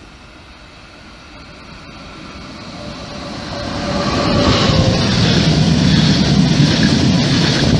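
Electric multiple-unit passenger train approaching and passing close by. The rumble of wheels on rail builds over the first few seconds, with a faint falling whine as the train nears, then turns into a loud, steady rush as the cars go by.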